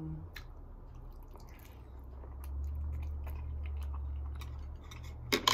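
Close-miked chewing and mouth sounds of someone eating, with faint scattered ticks. Near the end come a few sharp clicks, like chopsticks hitting a plate.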